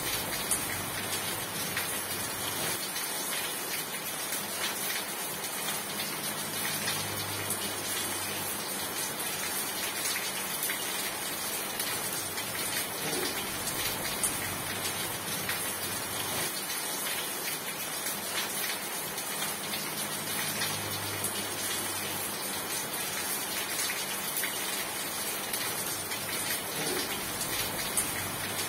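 Steady rain falling, a continuous even hiss scattered with many small drop ticks, with no letup.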